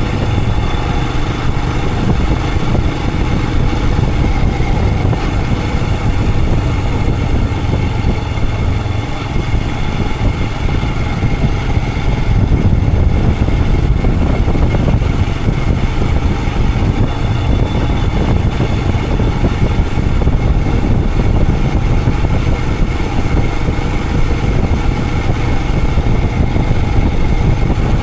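Royal Enfield Himalayan 411's single-cylinder engine running steadily under way, with wind rushing over the action camera's microphone.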